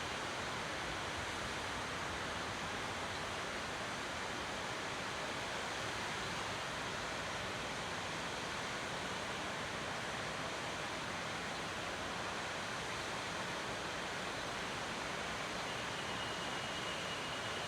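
Waterfall: a steady, even rush of falling water. Near the end a thin, high, steady tone joins it.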